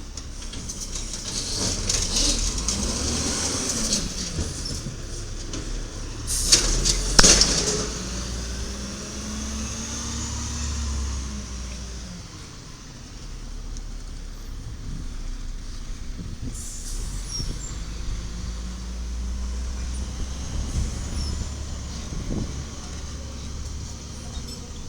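1995 Peterbilt 310 diesel garbage truck with an automated side-loader running, its engine pitch rising and falling as the loader works. A loud sudden burst of noise comes about seven seconds in.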